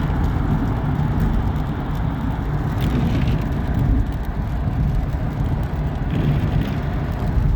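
Steady rumble of a road vehicle driving, engine and tyre noise running evenly without change.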